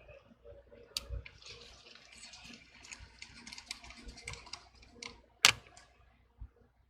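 Small tools and metal phone parts being handled, making a run of light clicks and taps. There is a sharper click about a second in and a loud click about five and a half seconds in.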